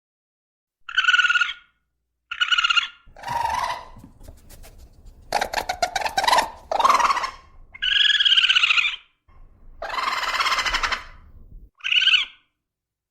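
A series of short animal calls, some clear and pitched, others harsh and raspy, about a dozen in all with brief gaps between them.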